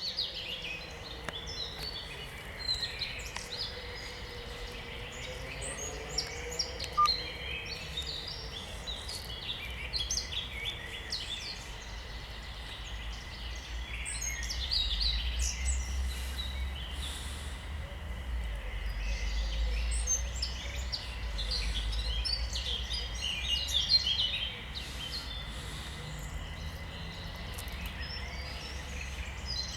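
Spring birdsong chorus: several songbirds singing at once, many quick chirps and short trills overlapping throughout. A low rumble underneath grows louder through the middle.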